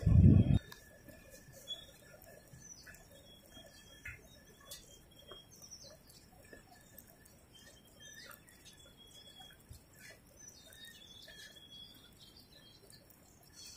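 Small birds chirping and calling faintly, in short scattered notes and little whistles, against a quiet background. A brief loud low rumble fills the first half-second.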